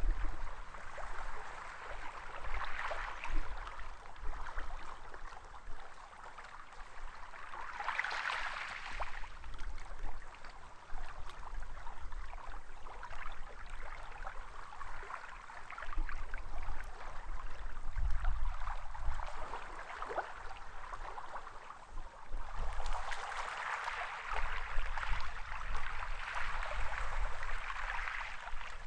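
Sea waves washing up onto a sandy beach: a hissing wash of water that swells and fades every few seconds, with the strongest surges about eight seconds in and over the last several seconds.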